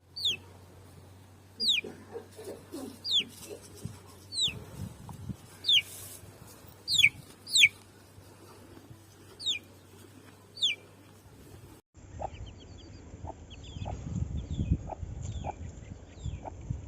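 Aseel chicks peeping. For the first twelve seconds there are single loud, downward-sliding peeps about once a second. After a sudden change there is a busier chorus of fainter peeps, with short lower calls and low rustling underneath.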